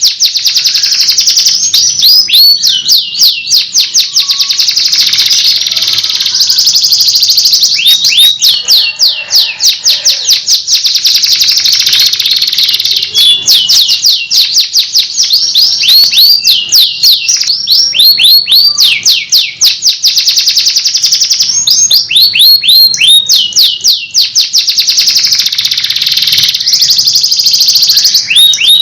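Canary singing continuously: long rolls of rapid, repeated falling whistled notes, one phrase running into the next with only brief pauses.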